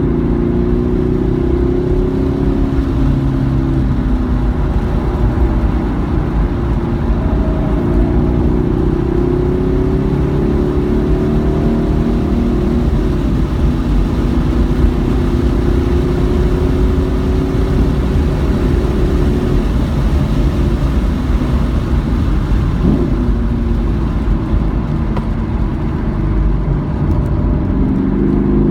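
Car engine driven hard around a racetrack, its pitch climbing under acceleration several times with drops between, over a heavy, steady low rumble of road and wind noise.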